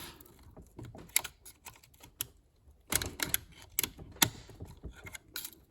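Irregular light clicks and taps of a pick hook working at the snap ring of a quick-connect intercooler hose fitting on a plastic throttle body, prying it loose.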